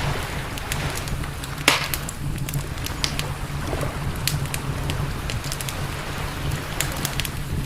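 Wood campfire crackling, with frequent sharp pops and one loud crack about a second and a half in, over a steady low rumble.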